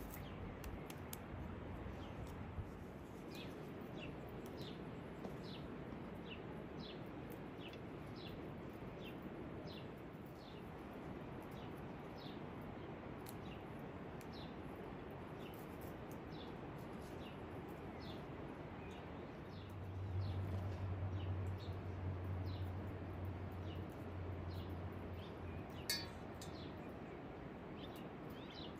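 Small birds chirping again and again with short, high, falling chirps over a steady outdoor hiss. About two-thirds of the way in, a low hum rises for several seconds and then fades, and a single click sounds near the end.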